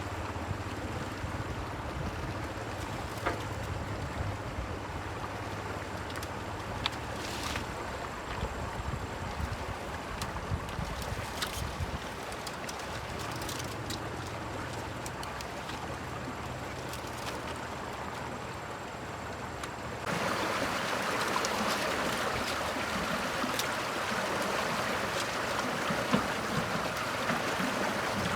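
Steady rushing water with a low motor-like hum underneath and scattered clicks. About two-thirds of the way in it changes abruptly to louder, even rushing water without the hum.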